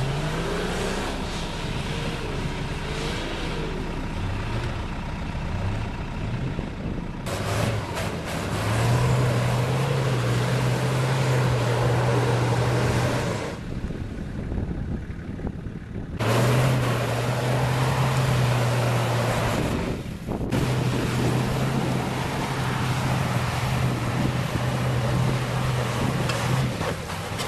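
Four-wheel-drive vehicle's engine working hard at fairly steady revs as it climbs a steep dirt track, easing off briefly about halfway and again a few seconds later.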